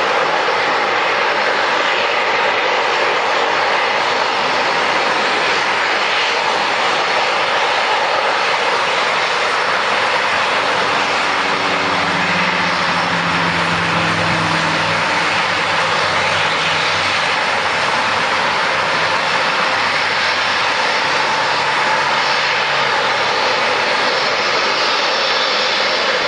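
Airliner engines running at an airport, a loud, steady roar. A deeper drone comes in about eleven seconds in and fades a few seconds later.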